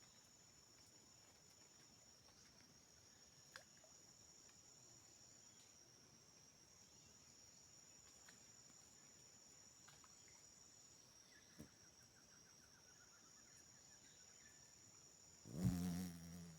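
Steady high-pitched chorus of crickets and other insects, with a few faint clicks and a brief louder sound near the end.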